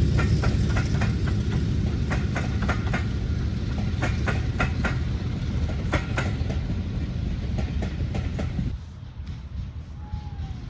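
Diesel-hauled train passing, a heavy low engine rumble under a run of wheel clicks over rail joints. The rumble drops away suddenly near the end, leaving a quieter background.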